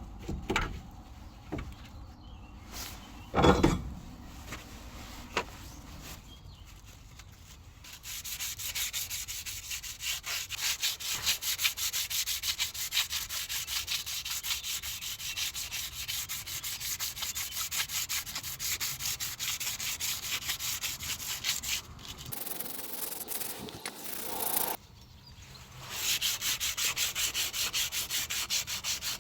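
A few knocks in the first seconds, the loudest about three and a half seconds in. Then, from about eight seconds in, a fast, steady abrasive scrubbing on metal, in the manner of wire-brushing or sanding, which breaks off twice for a moment in the second half.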